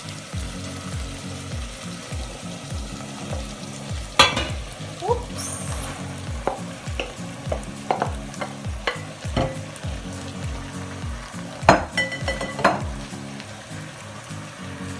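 Fried rice being stir-fried in a pan, sizzling, with a spatula scraping and clinking against the pan now and then, loudest about four seconds in and again near twelve seconds. A steady low beat runs underneath.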